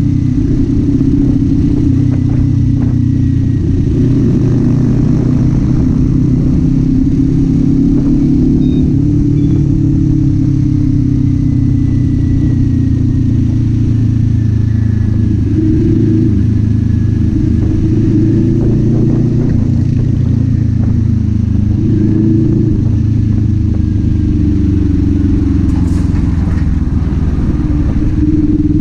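Kawasaki Z400's parallel-twin engine running steadily while riding, its pitch rising and falling only slightly, with no hard revving.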